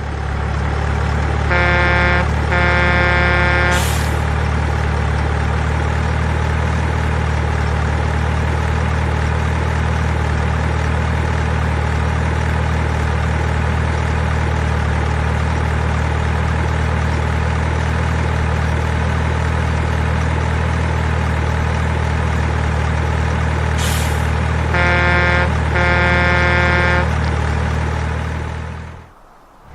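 Heavy diesel truck engine sound running steadily. About two seconds in and again near the end, an air horn gives two blasts, and a short hiss of air comes just after the first pair and just before the second.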